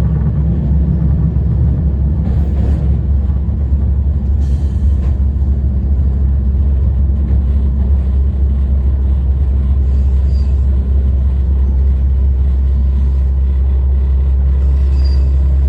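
Tarumi Railway Haimo 295 diesel railcar running along the line: a steady low drone of engine and running gear, with two brief sharper noises about two and a half and four and a half seconds in. The engine note steadies near the end.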